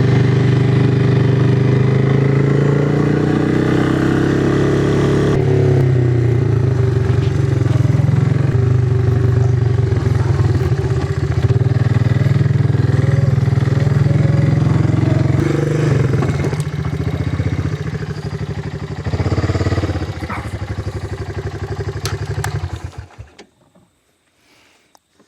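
A vehicle engine running under way, its pitch rising over the first few seconds as it picks up speed, then holding fairly steady. It is switched off near the end, and the sound drops away.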